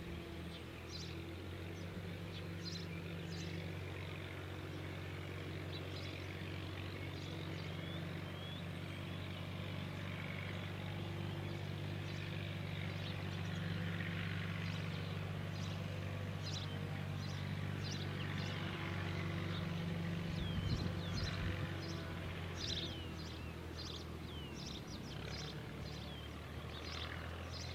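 Many small birds chirping outdoors in short high calls, more often in the second half, over a steady low hum.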